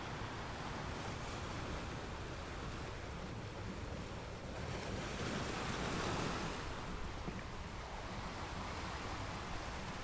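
Ocean waves washing in a steady rush. One wave swells louder about five seconds in, peaks around six seconds, and falls away.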